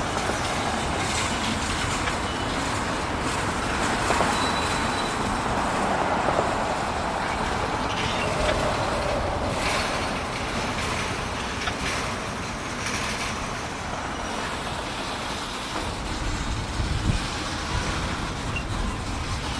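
Freight train rolling slowly through a set of switches: a steady rumble of wheels on rail, with scattered sharp clicks as the wheels cross the joints and switch points.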